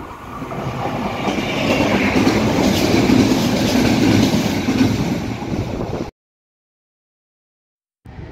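ONCF passenger train passing close by at speed, its wheel and rail noise swelling as it nears and staying loud as the coaches run past. About six seconds in the sound cuts off abruptly into two seconds of silence.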